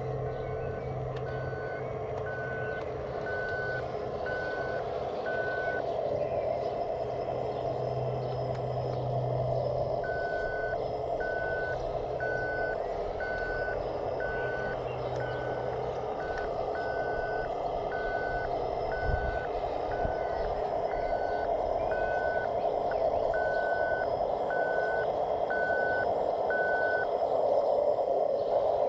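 Reversing beeper on a radio-controlled model construction vehicle, a steady beep repeating about once a second. It stops for a few seconds and then starts again, over the steady whine of the model's motors.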